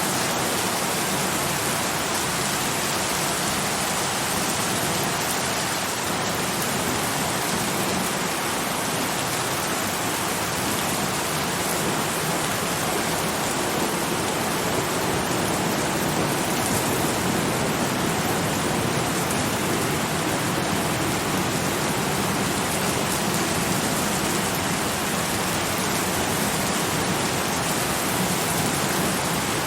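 Steady, even rain falling, a dense hiss without distinct drops or thunder.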